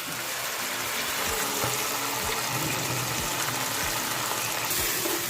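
Wet green masala paste sizzling steadily as it goes into the hot pan of chicken, with a few soft thuds of the spoon.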